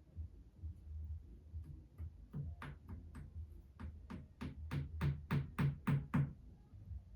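A run of about fifteen sharp knocks, roughly three a second, growing louder toward the end and then stopping.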